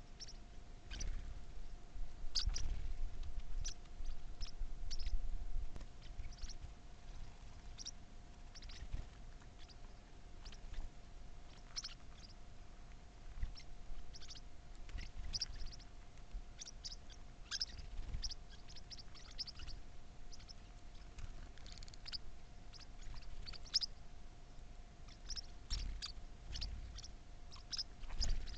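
Small birds giving short, high chirps at irregular intervals, over a faint steady hum and a low rumble.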